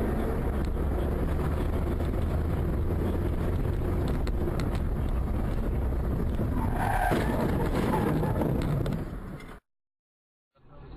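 Steady low rumble of a motor vehicle in motion, which fades and cuts off a little before the end.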